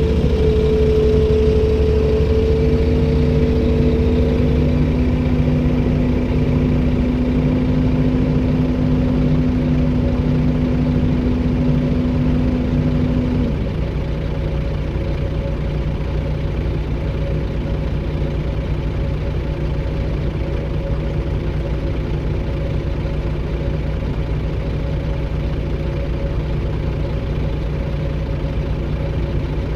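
Komatsu PC290-10 excavator's diesel engine running steadily at low revs. A higher tone fades out in the first few seconds and a lower tone cuts off sharply about halfway through, after which the engine runs a little quieter.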